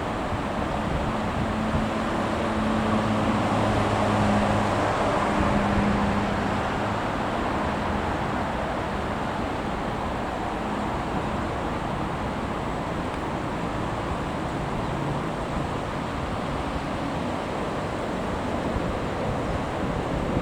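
Steady rushing noise of wind and passing traffic by the railway. A low vehicle hum swells and fades over the first several seconds.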